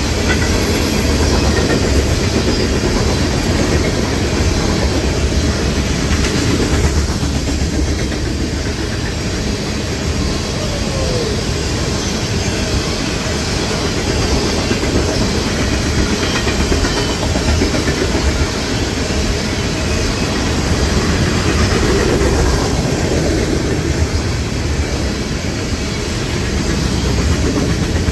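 Norfolk Southern freight train rolling past close by, its cars' wheels clicking steadily over the rail joints with a continuous rumble.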